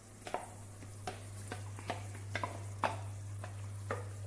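A utensil knocking and scraping against a cooking pot in a string of irregular sharp clicks, about two or three a second, as tomatoes go into the sauce. A steady low hum runs underneath.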